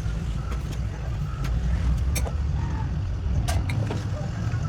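Steady low rumble of a running motor or engine, with a few sharp clicks over it.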